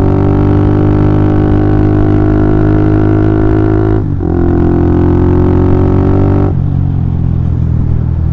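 Honda CB150R's 150 cc engine running through a DOS Muffler full-system exhaust under way, its pitch rising slowly, dropping at a gear change about four seconds in, rising again, then easing off near the end.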